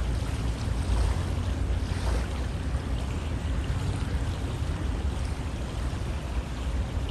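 River water flowing: a steady, even rush with a deep low rumble underneath.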